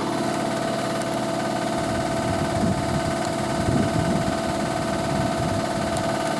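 Hoover A3060 Electronic 1100 washing machine spinning, its motor running with a steady whine and the machine's vibration heard as a continuous rumble.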